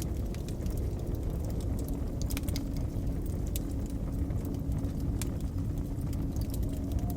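Wood fire crackling with frequent small sharp pops, over a steady low rumble of blizzard wind.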